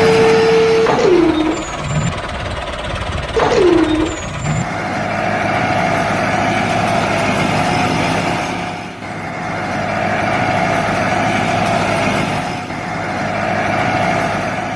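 Small electric motor of a DIY mini model tractor running steadily with a constant whine. Two short falling tones sound in the first few seconds.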